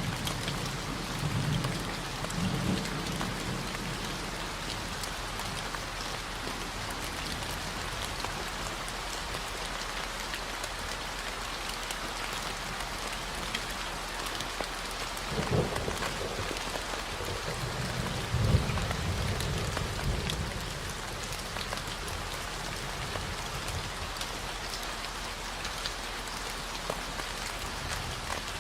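Steady rain hiss with a continuous 40 Hz low tone beneath it. Low rumbles of thunder swell near the start, briefly around 15 seconds in, and again from about 18 to 20 seconds.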